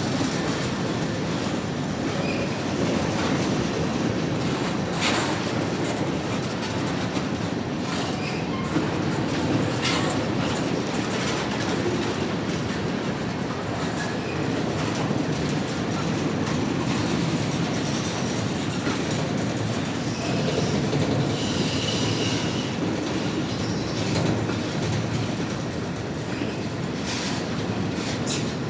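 Freight cars of a mixed freight train rolling past: a steady rumble with clickety-clack from the wheels over rail joints and a few brief high wheel squeals.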